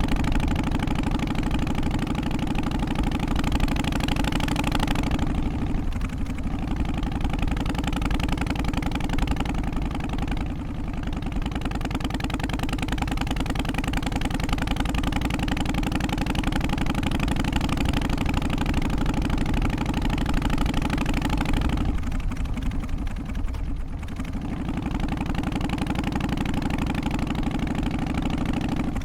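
Harley-Davidson FXST Softail's Twin Cam 88 V-twin engine running steadily, its exhaust note dipping briefly three times.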